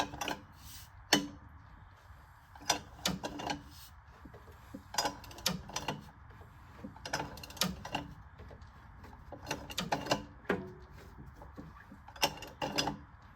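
AMC Eagle's engine being turned over by hand with a ratchet wrench: short runs of ratcheting clicks and metal clanks every second or so. No steady engine sound is present. The engine is being turned to find a metal-to-metal hitting at the starter and flywheel.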